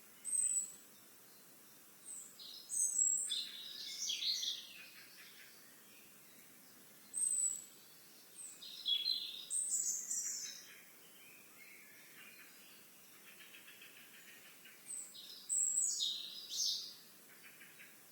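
Wild songbird singing: four short phrases a few seconds apart, each opening with a high, thin note and running into a quick jumble of lower notes, with a softer buzzy trill between the third and fourth phrases.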